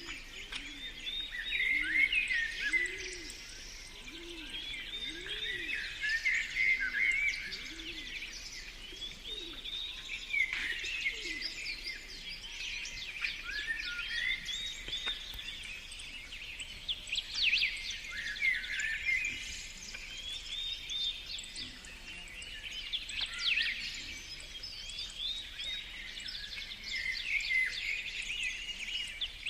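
Several birds singing at once, a continuous chorus of overlapping chirps, trills and warbles. Through the first ten seconds a low note repeats beneath them about every two-thirds of a second.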